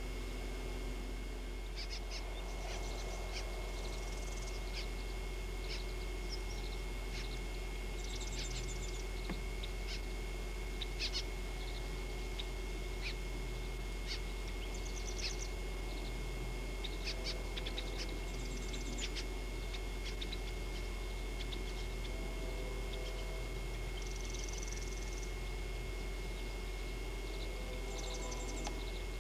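Birds chirping: scattered short, high chirps and a few brief trills, over a steady electronic hum and hiss.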